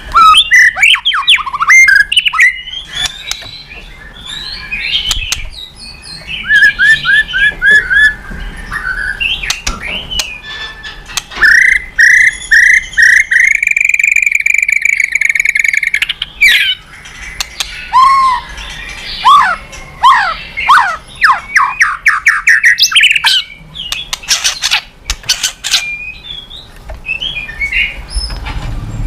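White-rumped shama (murai batu) singing a long, varied song. It runs through quick chirps, a string of rising whistled notes in the middle, then downward-sweeping whistles and sharp clicking notes toward the end.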